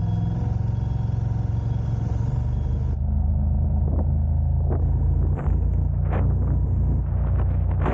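A car driving, with a steady low engine and road rumble. For the first three seconds an even engine hum rides on top. After that come several short sharp thumps.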